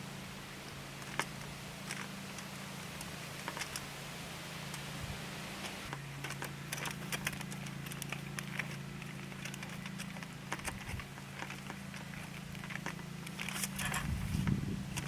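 Wood fire crackling, with irregular sharp pops and snaps that come thicker near the end, over a steady low hum.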